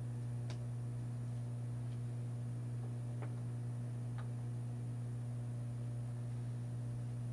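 A steady low hum, with a few faint clicks or ticks about half a second, three seconds and four seconds in.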